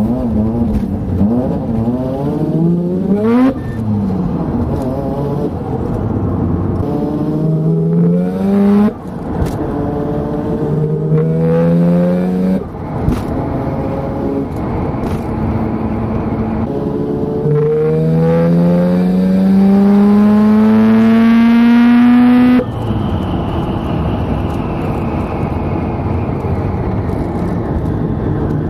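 Turbocharged Mazda RX-7 rotary engine accelerating hard through the gears: the engine note climbs in pitch in several pulls with a short break and a sharp snap at each shift, the last pull the longest, then it cuts off suddenly and the engine runs on with a lower, slowly falling note.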